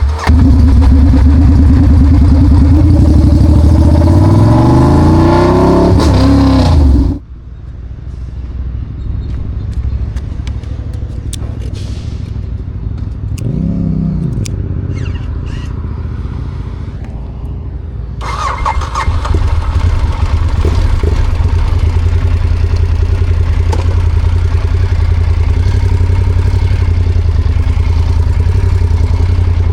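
Ducati Diavel 1200's straight-piped L-twin engine running loud. Its pitch climbs over a few seconds as it is revved, then the sound drops away suddenly. In the quieter stretch there is one quick rev that rises and falls about halfway through, and for the last ten seconds or so it is loud and steady again.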